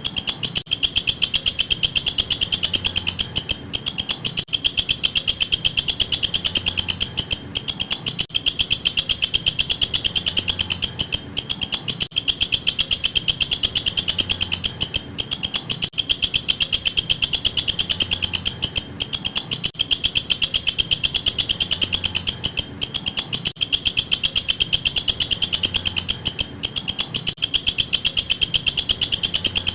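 Walang kecek (an Indonesian singing insect) calling in a fast, continuous, high-pitched trill of rapid pulses, broken by short pauses every few seconds.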